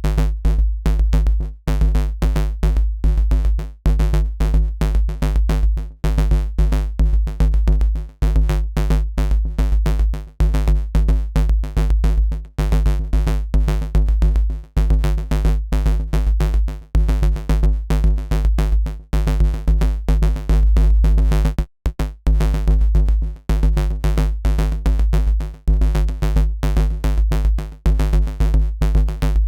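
Dirty FM synth bass riff patched in Bitwig's Polygrid, playing in a loop at about 140 BPM. Short, rhythmic, gritty notes sit over a deep, constant sub-bass. The sound cuts out for an instant about 22 seconds in.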